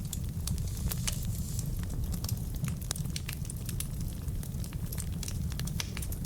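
Wood fire burning in a fireplace: a steady low rumble of flames under dense, irregular crackles and pops from the burning logs.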